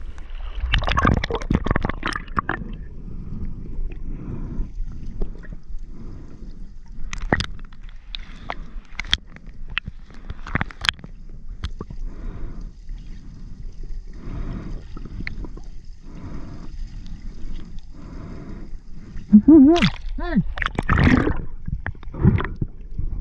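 Underwater water noise picked up by a diving camera: gurgling and sloshing, with a run of short pulses about once a second through the middle and louder splashing near the end.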